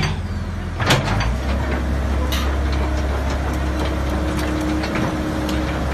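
Hitachi EX60-1 mini excavator's diesel engine running steadily. The low engine note shifts a little about a second in, and a few sharp metallic clicks or knocks come over it.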